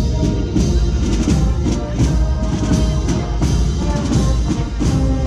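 Holy Week processional band playing: held melody notes over regular drum beats.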